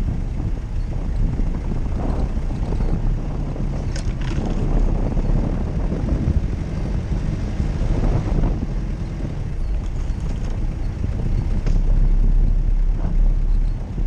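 Jeep Cherokee driving off-road: a steady, heavy engine and drivetrain rumble that swells and eases, with a sharp knock about four seconds in.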